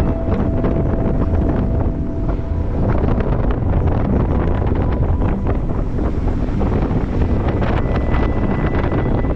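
2018 Jeep Wrangler JK driving through deep fresh snow: a steady low rumble of engine and tyres with many small crackles, and wind buffeting the microphone.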